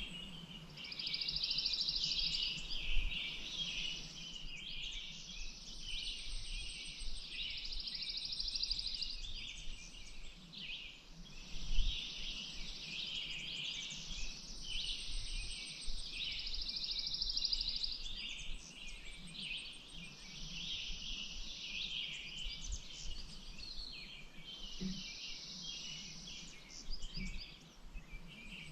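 Outdoor birdsong: busy chirping throughout, with a high, fast trill lasting two to three seconds that comes back every several seconds. A couple of brief low thumps about 3 and 12 seconds in.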